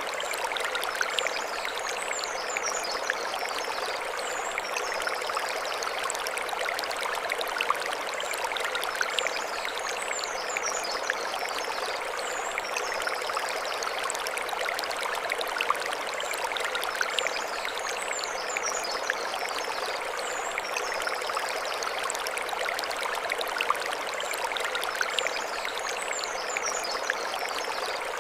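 Mountain stream flowing steadily over stones, a dense splashing rush. High chirps from a small bird come in short groups that recur about every eight seconds.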